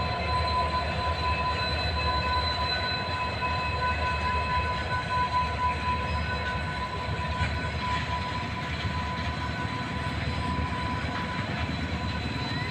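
Indian Railways freight train with diesel locomotives passing at close range: steady low rumble of locomotives and wagons, with steady high-pitched whining tones over it.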